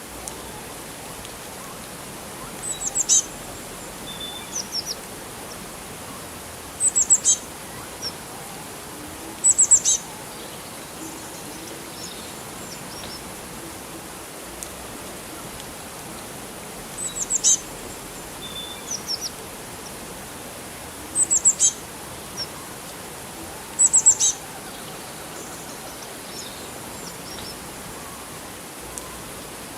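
Songbirds chirping: short clusters of quick, high chirps come every few seconds, over a steady background hiss.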